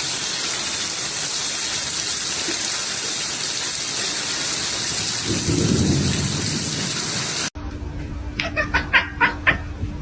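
Steady rushing noise with a low rumble about five and a half seconds in. It cuts off suddenly near the end and gives way to a run of sharp taps over a steady low hum.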